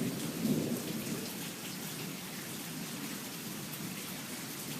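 Steady rain falling during a thunderstorm, with the tail of a thunder rumble dying away about a second in.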